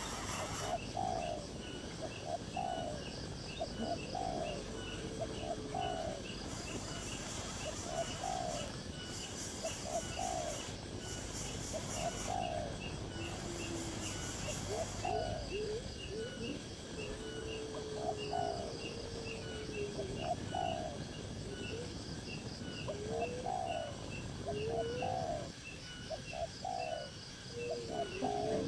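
Birds calling: short notes repeated about once a second, mixed with a few longer drawn-out gliding calls.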